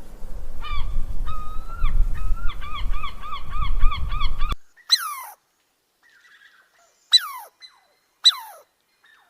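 Bird calls: a run of repeated pitched calls over a low rumble, speeding up to about five calls a second, that stops abruptly; then three separate short calls that each slide steeply down in pitch.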